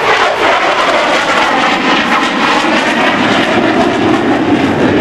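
Grumman F-14 Tomcat's twin jet engines running at high power as the fighter flies its display: loud, steady jet noise whose pitch slowly shifts as the aircraft moves.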